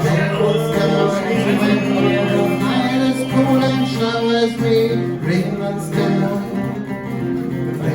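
Band music in a country style, with guitar and some singing, playing on without a break.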